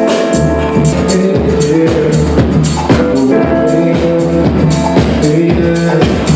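Rock band playing live: a drum kit keeps a steady beat under held chords and a heavy low bass.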